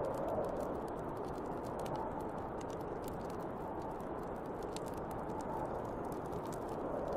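Snowstorm wind blowing steadily in a whooshing band that swells and eases, with a bonfire crackling in many small sharp pops throughout.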